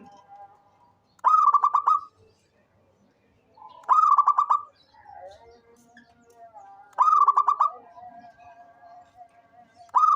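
Zebra dove (perkutut) singing its cooing song: short phrases of rapid pulsed coos, repeated about every three seconds, with a fourth phrase starting at the very end.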